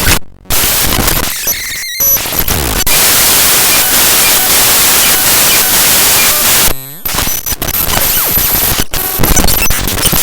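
Raw binary data of the ffmpeg executable played back as audio: harsh, loud static that changes abruptly. There are short dropouts near the start and just before two seconds in, a dense hiss through the middle, and a brief dip with gliding tones around seven seconds in, followed by crackling clicks.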